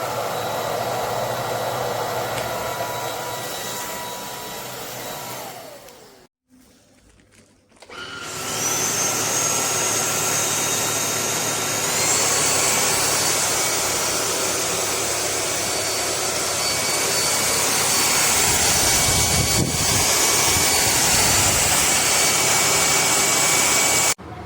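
Lubluelu cordless stick vacuum's brushless motor running with a high whine and rushing air. It winds down and stops about six seconds in, then starts up again with a rising whine a couple of seconds later. About twelve seconds in it steps up in pitch, and it runs steadily until it cuts off suddenly near the end.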